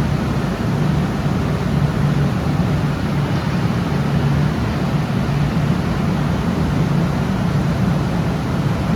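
Steady factory machinery noise with a low hum, running without letup.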